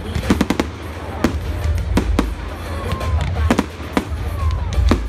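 Fireworks bursting overhead: a rapid, irregular run of sharp bangs and cracks, several a second and some in quick clusters, over a steady deep rumble.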